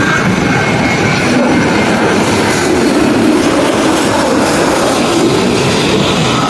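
Jet airliner's engines heard from the ground: a loud, steady rush of engine noise that holds level throughout.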